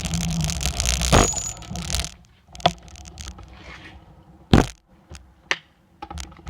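Dirt bike engine running, then cutting out about two seconds in. A few scattered knocks and clunks follow, as from handling the bike or the camera.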